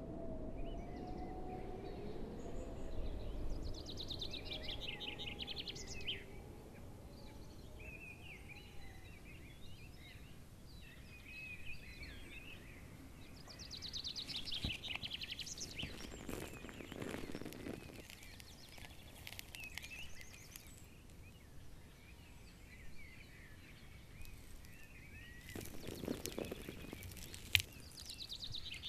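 Small birds calling with quick trills and chatters over a faint outdoor background. There are a couple of short noisy stretches, and one sharp click comes near the end.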